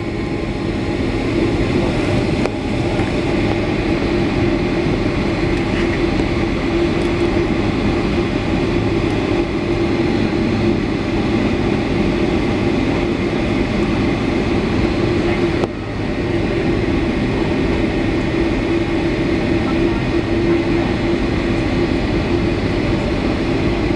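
Boeing 757-300 cabin noise: the engines and the rolling airframe make a loud, steady rumble that builds over the first couple of seconds, then holds level, with a brief dip about two-thirds of the way through.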